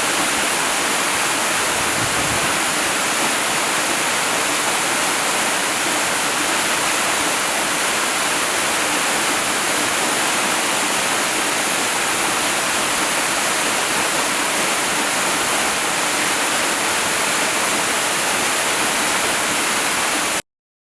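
Waterfall rushing in a steady, even hiss of falling water, heaviest in the high range, which cuts off suddenly near the end.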